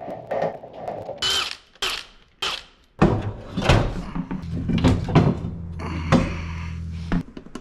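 Tools and metal parts knocking and clanking during engine removal, then a small motor running steadily for about three seconds, stopping abruptly near the end, most likely a power tool.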